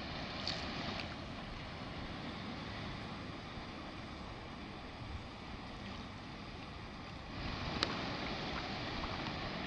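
Low, steady wash of sea surf on a beach, mixed with wind on the microphone, growing slightly louder about seven seconds in; a few faint clicks.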